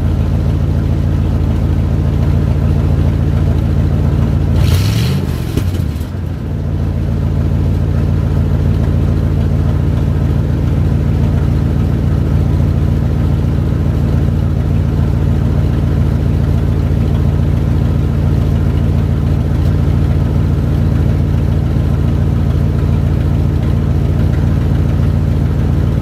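1967 Ford F-100's 352 V8 idling through its exhaust during a cold-start warm-up, with one brief rev about five seconds in before it settles back to a steady idle.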